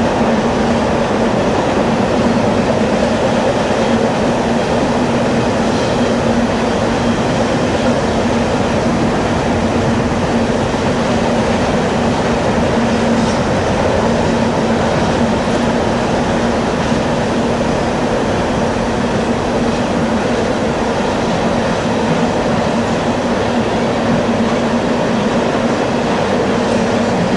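A train rolling past: a steady, loud rumble of wheels on rail with a low hum.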